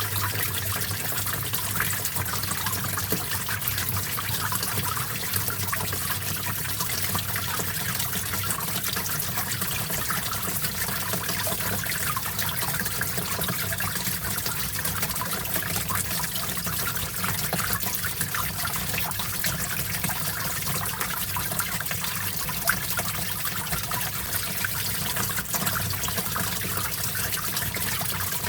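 Small stream of water flowing and trickling steadily, a continuous splashing babble with a faint low rumble beneath.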